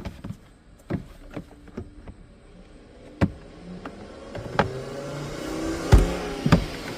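Sharp clicks and knocks of car interior parts being handled and fitted into place during dash reassembly. A steady hum rises in the background in the second half.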